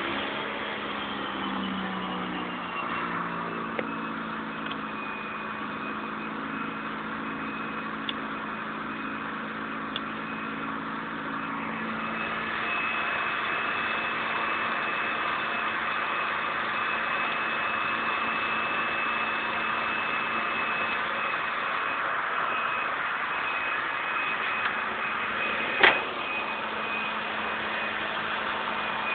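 Honda Civic engine idling right after starting, its revs falling and settling over the first couple of seconds, then running steadily with a thin, high, steady whine over it. One sharp click about 26 seconds in.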